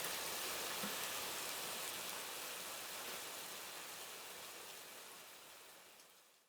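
Rain falling: a steady, even hiss that fades out gradually over several seconds and cuts to silence near the end.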